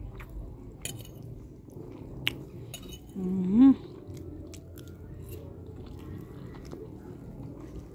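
A person eating close to the microphone: soft chewing with scattered small clicks. A bit over three seconds in, a short hummed "mm" that rises in pitch.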